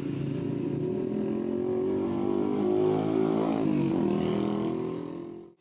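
A motor vehicle engine running, its pitch dropping about three and a half seconds in, then fading and cutting off abruptly near the end.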